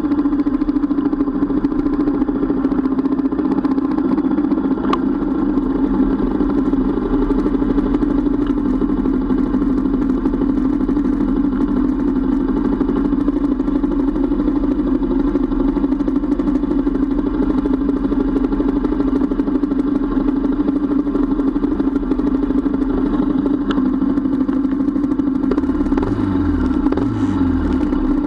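Motorcycle engine idling steadily at close range, its vibration carried into the bike-mounted camera as a constant hum. Near the end there are two short rises and falls in engine pitch.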